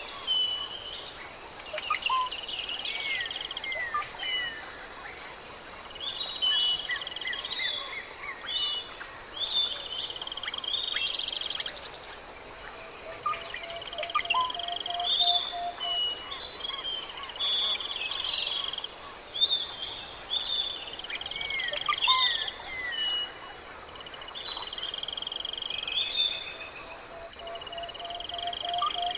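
A mix of birds chirping and whistling with short, falling calls over steady high insect trilling. A longer, lower call sounds twice, once near the middle and once near the end.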